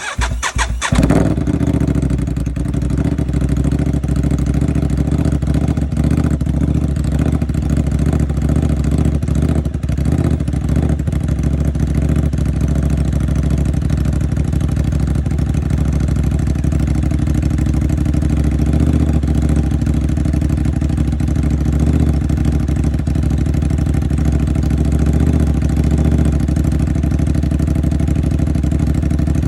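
Aprilia RS 660's parallel-twin engine with an SC-Project CRT exhaust, cold-started at −7 °C. The starter cranks briefly, the engine catches about a second in, and it then settles into a steady idle.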